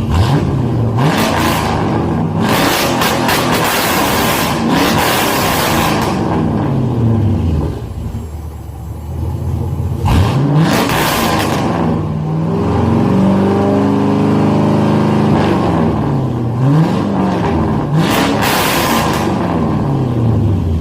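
A 5.3-litre LS V8 truck engine running loud through an MBRP muffler with its baffles cut out, sounding straight-piped. It is revved again and again, the pitch climbing and falling, settles back to idle for a couple of seconds about eight seconds in, then is revved again several times.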